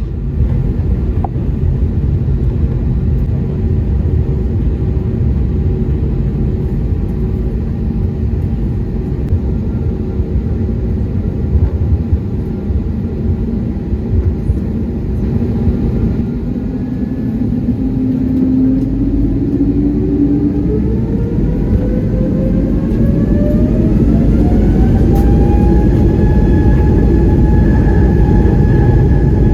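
Airbus A320neo jet engines spooling up for takeoff, heard from inside the cabin. A steady low rumble, then from about halfway a rising whine that climbs and levels off near the end as the engines reach takeoff thrust.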